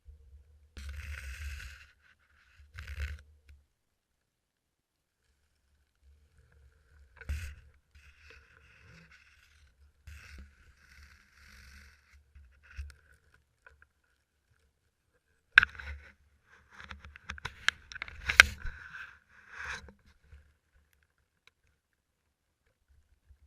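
Intermittent scraping and rustling with a cluster of sharp clicks and knocks, the loudest two about three seconds apart: gear being handled and moved against a metal tree stand.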